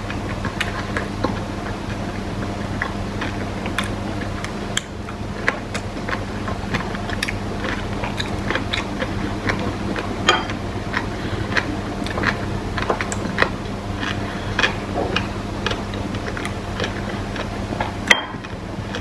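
Someone eating kimbap and kimchi: irregular small clicks and smacks of chewing and biting, a few a second, over a steady low hum.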